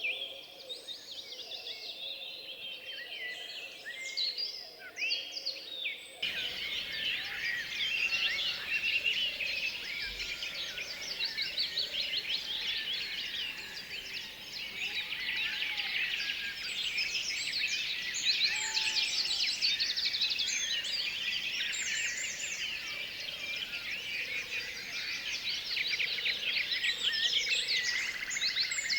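Many birds singing together, a dense chorus of overlapping chirps and trills. About six seconds in it cuts abruptly to a fuller, busier chorus.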